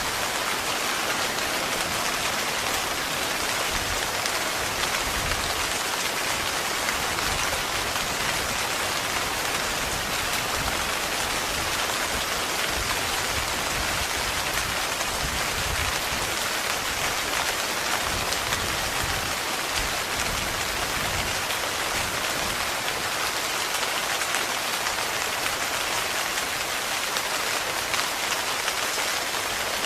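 Heavy rain falling steadily on a tent, a dense even patter with individual drops ticking through it.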